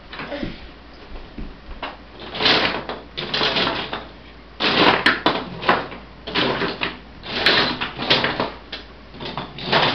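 Toy monster trucks being handled and set down, with irregular bursts of plastic clattering and rattling.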